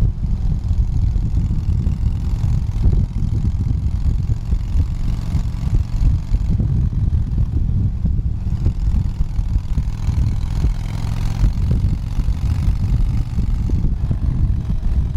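Motorcycle cruising at highway speed: the engine runs steadily under a heavy, fluttering low rumble, with no change in pace.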